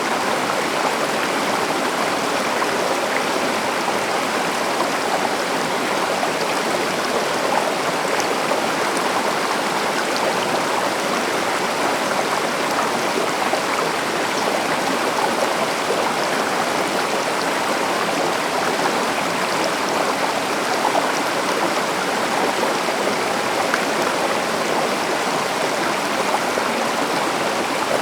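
River or stream water flowing over rocks in a steady, unbroken rush.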